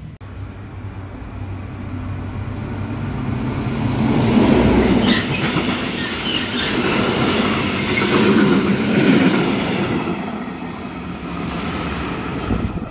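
A train passing by, its wheels rumbling and clattering on the track, growing louder to a peak in the middle, with brief high wheel squeals.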